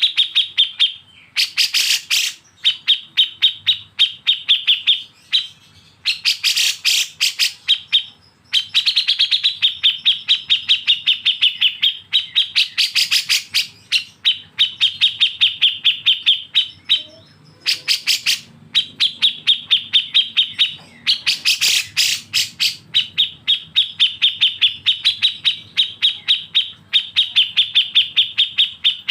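Songbird bulbuls, kapas tembak and cucak jenggot, giving their harsh 'besetan' chatter: fast runs of rattling notes, many a second, lasting a few seconds each with short pauses between.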